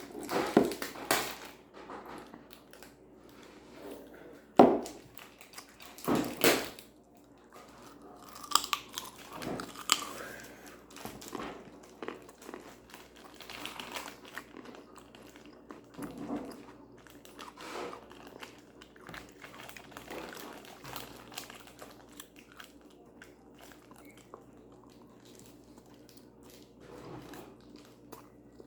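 Close-up eating sounds: biting and chewing food, with a few sharp, loud crunches at irregular intervals and softer chewing between them.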